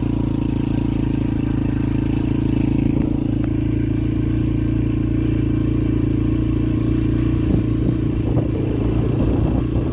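Yamaha TT-R125LE dirt bike's single-cylinder four-stroke engine running at a steady, moderate speed while being ridden, with some light clattering in the last few seconds.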